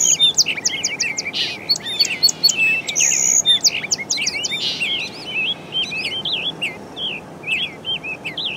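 Several birds chirping and singing at once: a dense chorus of quick chirps and short swooping whistles, with a harsher buzzy note right at the start and another about three seconds in.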